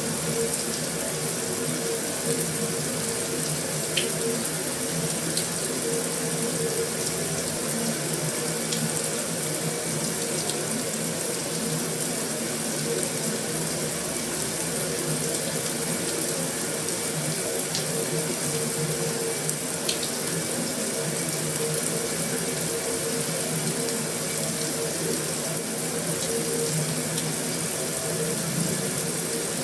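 Heavy rain falling steadily on a metal roof, an even wash of patter with a few sharper drop ticks here and there.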